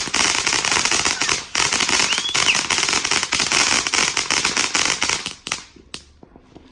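Backyard consumer firework crackling: a loud, dense stream of rapid cracks over a hiss, dipping briefly about a second and a half in, then dying away a little after five seconds, with one last crack just after.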